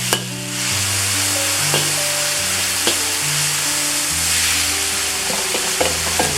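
Marinated chicken sizzling steadily in hot oil in a wok, with a few clicks of a utensil against the pan. Background music with a stepping bass line plays underneath.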